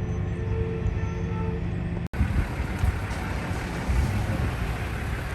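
Motor vehicle engines running with a steady low rumble, broken by a brief cut to silence about two seconds in.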